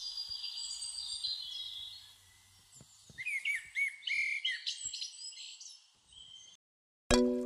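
Birds chirping and singing, with high whistled notes and quick chirps, cutting off abruptly about six and a half seconds in. Near the end, music starts with a run of evenly struck notes.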